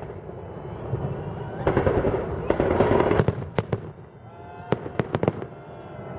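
Fireworks salute: aerial shells bursting in a rapid series of sharp bangs over continuous rumbling noise. The bangs come thickest in the second half.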